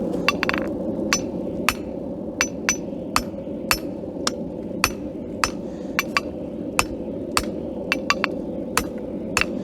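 Hand hammer striking hot steel on an anvil, each blow ringing, about two a second, with a few quicker, lighter blows near the end.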